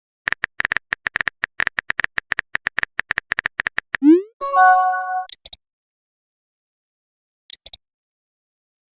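Phone-keyboard typing clicks, fast and even, about nine a second for nearly four seconds, then a quick rising pop and a short chime of several notes, as of a chat message being sent. Two brief high ticks follow a little later.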